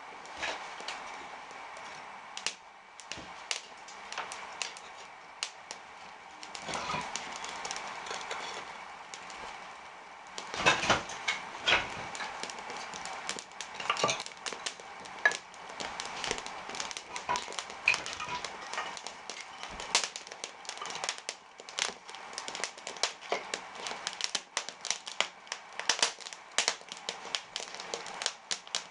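Freshly lit firewood in an open brick fireplace catching: irregular sharp crackles and pops over a steady hiss of flame, getting busier about ten seconds in.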